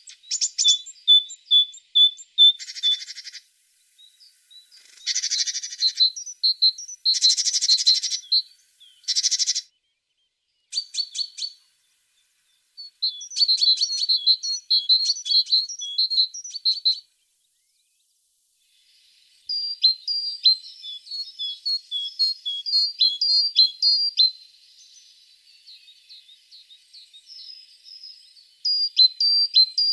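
A tit singing: phrases of clear, high repeated notes, rapid trills and a few harsh buzzy notes, broken by short pauses.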